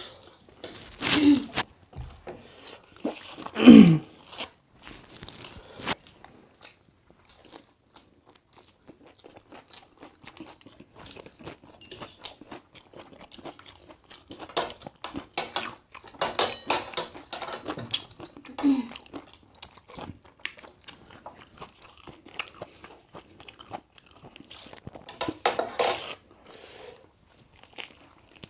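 A person chewing and biting food with irregular crunches and mouth clicks. About four seconds in there is a short, louder, falling voice-like sound.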